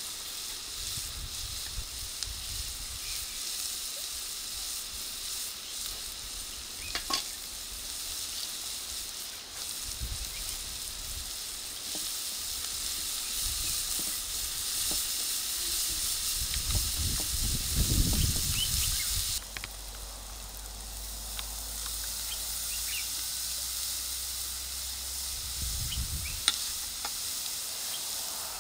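Diced onion and green pepper sizzling in hot oil in a frying pan, stirred now and then with a wooden spoon, which gives a few light clicks against the pan. A few low rumbles come and go beneath the steady sizzle.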